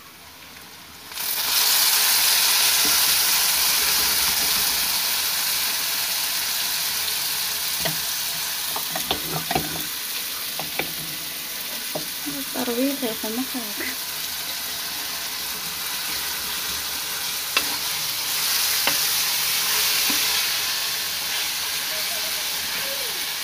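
Minced-meat, tomato and onion masala hitting hot oil in a steel karahi, which sizzles suddenly and loudly about a second in, then goes on frying steadily with the clink and scrape of a steel ladle stirring. The sizzle swells again later as more mixture is ladled in.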